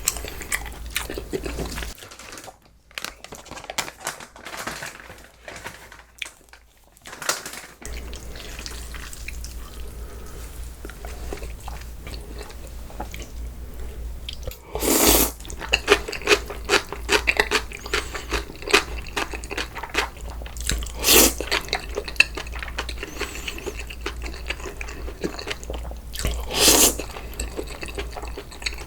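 Close-miked chewing and crunching while eating spicy cold noodles, with many small wet clicks. Three short, louder noisy bursts come about halfway through and twice more later.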